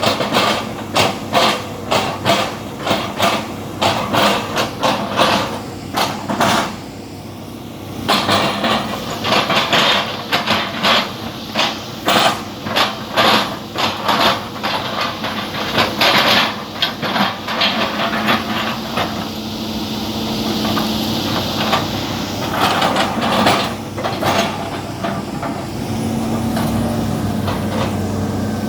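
Excavator engine running while its bucket chops an oil palm trunk: runs of sharp, rapid knocks, about two to three a second, broken by a short pause. After the knocks die down, the engine carries on steadily with a few more strikes.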